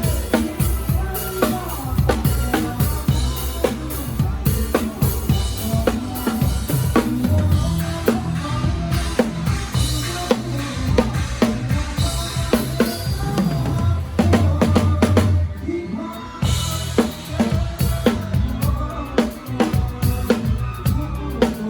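Live drum kit played with a band in concert: steady kick drum and snare hits, with cymbals, over the band's music. About three-quarters of the way through there is a brief break before the full beat comes back in.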